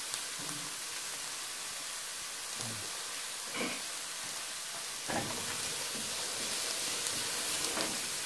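Chopped onion and garlic sizzling in hot oil in a frying pan, a steady frying hiss that gets a little louder about five seconds in; near the end a silicone spatula starts stirring the pan.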